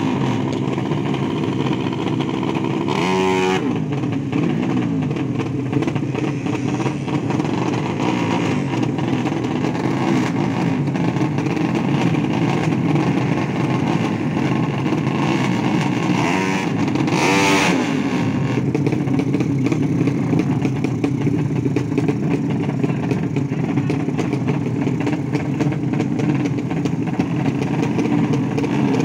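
Racing motorcycle engines running loudly, several at once, with the pitch sweeping up and back down twice: about 3 s in and again around 17 s in.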